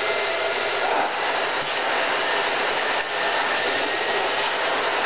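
Vacuum cleaner running steadily: a continuous rush of air with a faint whine over it.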